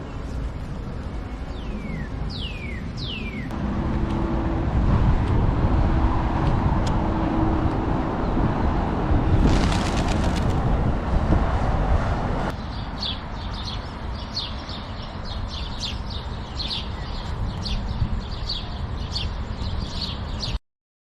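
Birds calling outdoors: three whistled calls that fall steeply in pitch, then a louder stretch of low rumbling noise with a steady low hum, then a run of quick repeated chirps until the sound cuts off suddenly.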